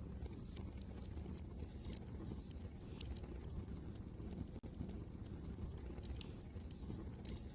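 Wood fire crackling with irregular small pops, over a steady low rumble of wind.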